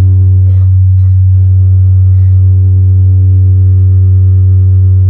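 Loud, steady low-pitched electrical hum with a row of fainter overtones, unchanging throughout, with a few faint soft knocks in the first few seconds.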